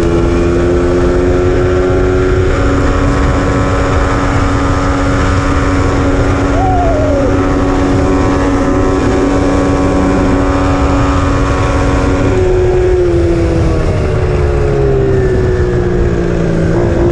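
80cc pit bike's engine running flat out at high revs, its pitch climbing slightly at first and then holding steady; about twelve seconds in it eases off and the pitch falls as the bike slows. Heavy wind noise on the helmet-mounted microphone rumbles underneath.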